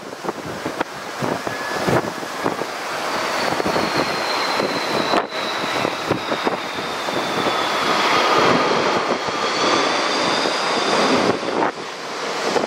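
Airbus A330-300 jet engines whining on landing approach, growing louder as the airliner comes closer. Strong gusts of wind buffet the microphone throughout.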